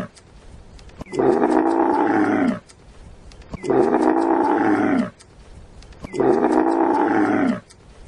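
A loud animal call, about a second and a half long and dropping in pitch at the end, repeated about every two and a half seconds: three full calls, plus the end of another at the very start.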